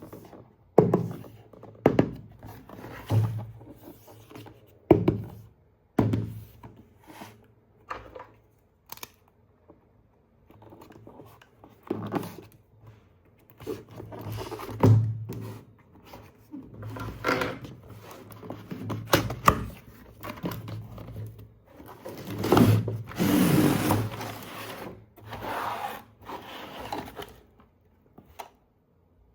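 Handling of toy packaging and plastic parts: irregular knocks and thunks every second or two, with a stretch of rustling and tearing of packaging about two-thirds of the way through.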